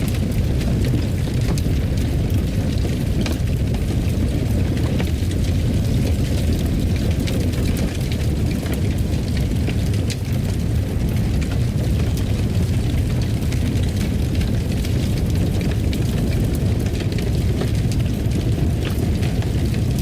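Fire crackling in a fireplace: a steady low rumble with scattered sharp crackles and pops throughout.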